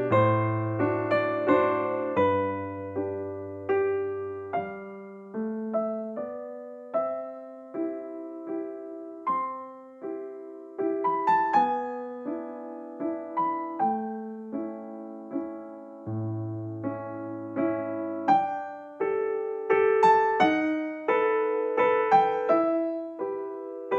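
Background music of a slow, gentle piano piece: single notes and chords struck one after another, each fading, over held bass notes.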